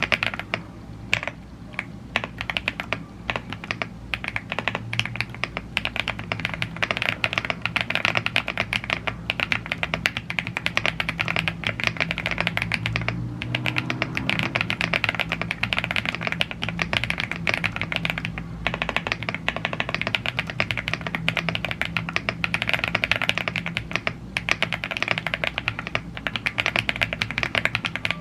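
Continuous fast typing on a YUNZII AL75 gasket-mounted aluminium mechanical keyboard with Blue Grey tactile switches and double-shot PBT Cherry-profile keycaps. It is a dense run of keystroke clacks with a few brief pauses.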